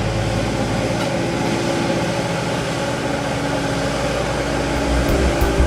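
Steady rush of water spilling over a natural-stone waterfall.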